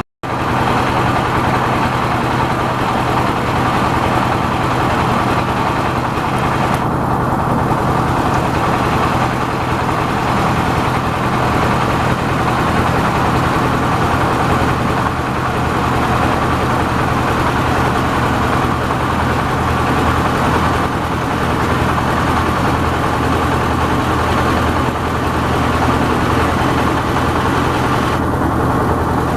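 Yanmar AW70V combine harvester's diesel engine running steadily under load while harvesting rice, a constant loud mechanical drone.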